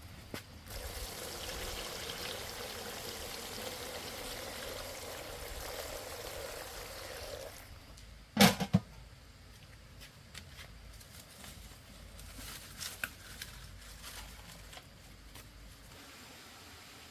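Water pouring steadily for about seven seconds, then stopping. Soon after comes a loud double knock, followed by a few light clicks and taps.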